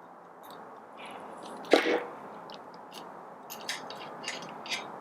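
Hand tools and small metal parts of a burr grinder's gearbox being handled: a loud clack about two seconds in, then several light clicks.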